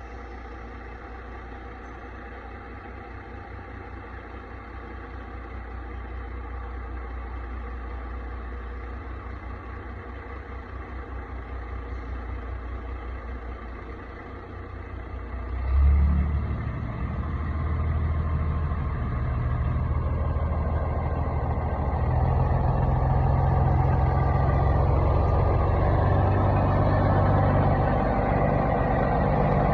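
Peterbilt 359 semi truck's diesel engine running with a low, pulsing sound. About halfway through there is a sudden loud burst, and after it the engine runs louder and higher for the rest of the time.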